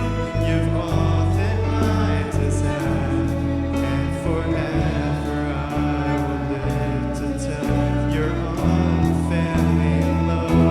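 Church worship band music with voices singing over held bass notes that change every second or so.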